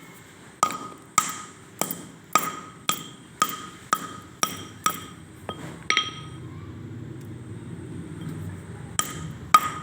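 Brittle roasted gray clay cracking in sharp crunches, about two a second at first, then a few more spaced out, with two near the end. Each crunch has a short, glassy ring.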